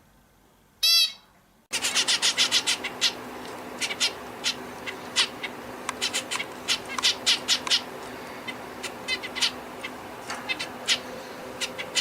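Bulbul calling: one loud, clear call about a second in, then, after an abrupt cut, a quick series of short, sharp chirping notes over a steady background hum.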